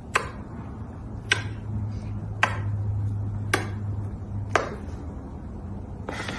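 Sharp clicks repeating evenly about once a second, five in a row, over a steady low hum.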